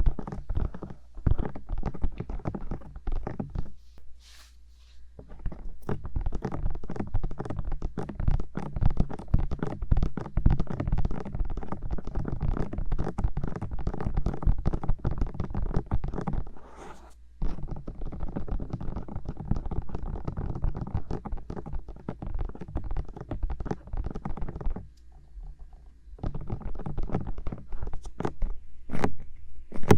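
Bare fingers tapping and rubbing quickly on the silicone ears of a 3Dio binaural microphone: dense runs of soft, close taps and rubs, broken by three short pauses, with a few sharper single taps near the end.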